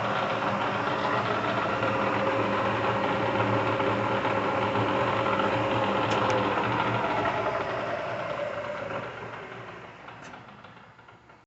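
A 1.5 HP Bridgeport Series I vertical milling machine running steadily with its spindle and motor turning. After a couple of faint clicks about six seconds in, it winds down, the pitch falling and the sound fading as it coasts toward a stop near the end.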